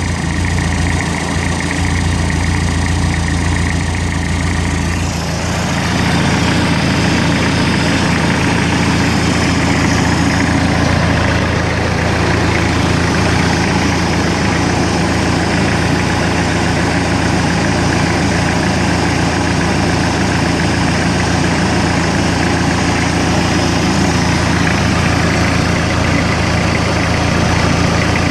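Hyundai D4BH 2.5-litre four-cylinder turbodiesel running steadily on test during an oil pressure check. About five seconds in, its speed rises and the sound grows slightly louder, then holds steady.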